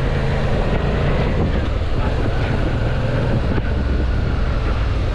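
Suzuki V-Strom motorcycle under way: a steady engine note beneath heavy wind noise on the microphone.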